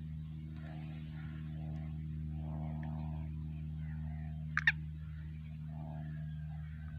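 Steady low hum, broken about two-thirds of the way through by two short, sharp bird chirps in quick succession.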